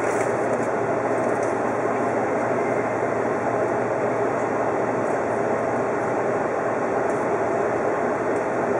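Steady running noise of an Odakyu 50000-series VSE Romancecar train in motion, heard from inside the front car, with a few faint ticks.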